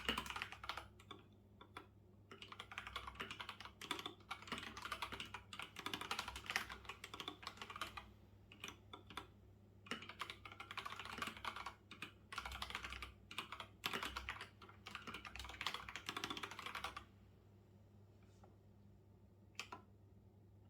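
Computer keyboard typing in quick runs of keystrokes with short pauses between them. The typing stops about three quarters of the way through, and there is one lone click near the end.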